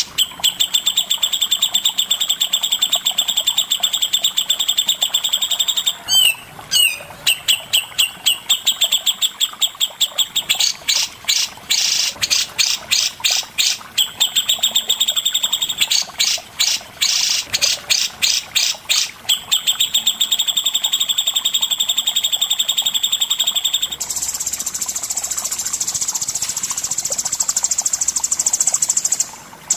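Songbird singing fast, continuous trills of rapidly repeated notes. Between about 7 and 19 seconds in it breaks into slower strings of separate, sharp notes. From about 24 seconds it switches to a harsher, hissing rattle.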